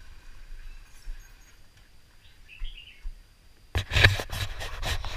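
Faint birds chirping a few times over a low hum. Almost four seconds in, a loud crackling, scraping rustle starts abruptly and keeps going.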